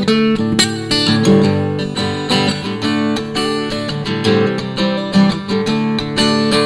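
Music: an acoustic guitar strumming chords in an instrumental break of a song, with no singing.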